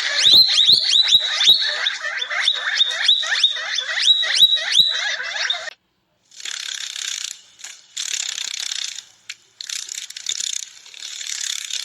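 Animal calls: a rapid run of short chirps, each falling in pitch, for about six seconds. After a brief gap come several raspy, hissing bursts.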